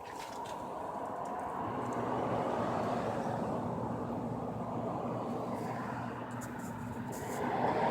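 Electric fuel pump of a 1999 Chevrolet Venture running steadily with its relay bypassed by a jumper: a continuous whirring hum. The pump primes but does not build enough fuel pressure, so it is due for replacement.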